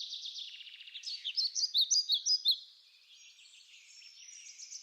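Songbirds chirping and trilling. About a second in comes a run of short, sharp, falling notes, louder for about a second and a half, then only faint chirps.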